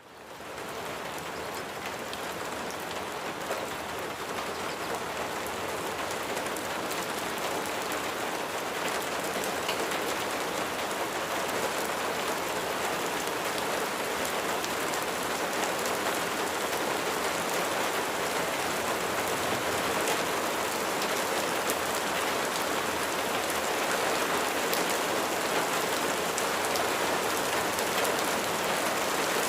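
Steady rain falling: a dense, even hiss with scattered drop taps, fading up out of silence in the first second or so.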